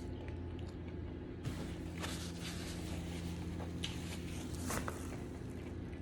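Quiet eating sounds: a few faint clicks and rustles of takeout food and its container being handled, over a steady low room hum.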